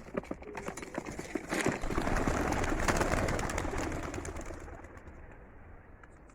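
A flock of young racing pigeons released from a basket and taking off: a dense clatter of wingbeats that swells about two seconds in, then fades away as the birds fly off.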